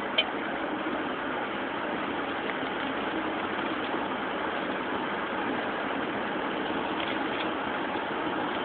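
Steady car noise of engine and tyres on the road, heard from inside the cabin while driving. A brief sharp click sounds a fraction of a second in.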